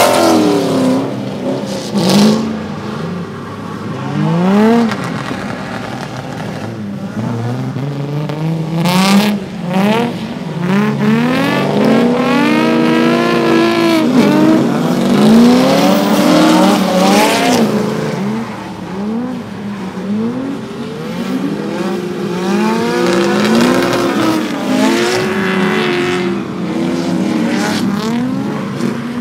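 Drift cars' engines revving hard and dropping away in repeated rising and falling sweeps as they slide past one after another, first a Nissan 350Z and later a Nissan 240SX, with a few sharp bangs in the first ten seconds.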